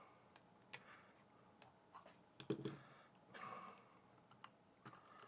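Faint scattered clicks and taps of a small plastic power-supply case being handled and pressed together. A cluster of sharper clicks comes about two and a half seconds in, and a brief soft rustle follows about a second later.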